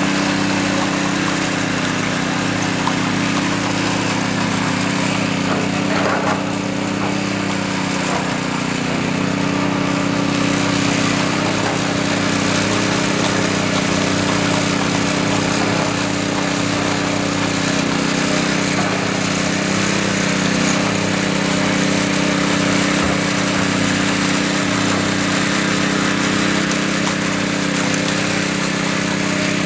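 Small petrol engine of a power trowel running steadily at constant speed.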